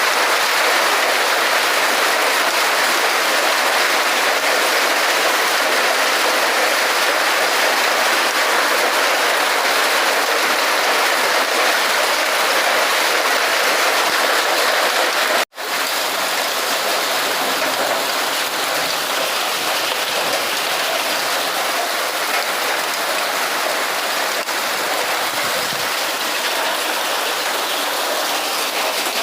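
Heavy rain mixed with hail, a dense steady patter of many small impacts. It cuts out for an instant about halfway through and comes back slightly quieter.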